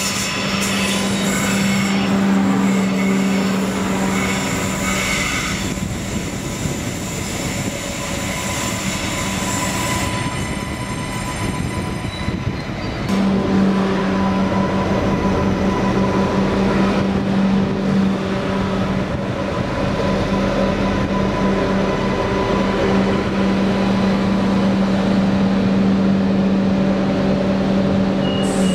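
Adelaide Metro 3000-series railcar with a steady low hum over running noise. About thirteen seconds in the hum returns as the railcar stands at the platform.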